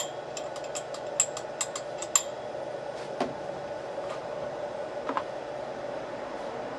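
Light clicks and taps of small hard parts being handled, most likely the post hole digger's recoil starter being fitted or tried: about a dozen in the first two seconds, then a few scattered ones. A steady hum runs underneath.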